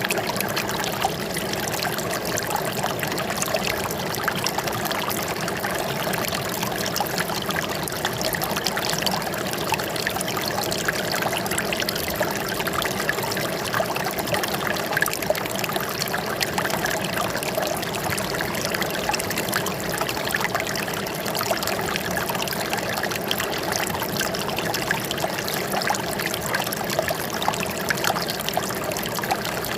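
Running water trickling steadily, an unbroken burbling flow.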